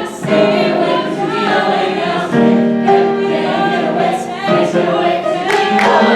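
A group of voices singing sustained chords in harmony, the chord changing about every two seconds.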